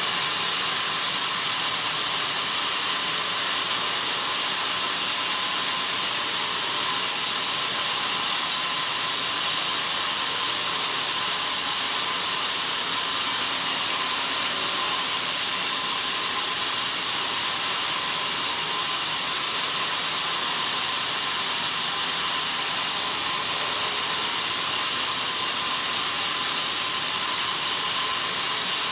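Sawmill bandsaw cutting through a log: a loud, steady hissing saw noise that holds unchanged throughout.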